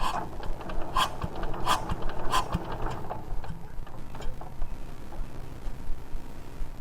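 Metal hand tools knocking and clinking on metal parts of a power tiller under repair. There are four sharper ringing knocks in the first two and a half seconds, then lighter scattered clicks.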